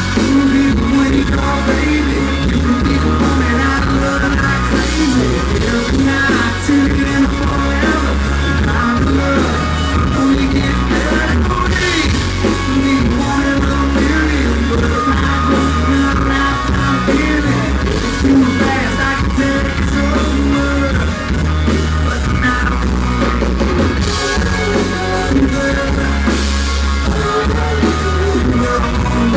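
Live country band playing loud amplified music with electric guitar, bass and drum kit, recorded from the crowd with a heavy, boomy low end.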